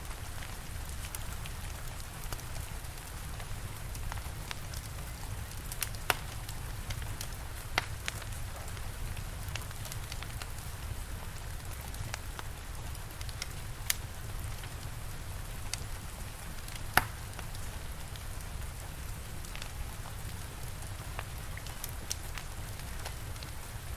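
Steady rain falling, with a wood fire crackling alongside and a few sharp pops now and then, the loudest about seventeen seconds in.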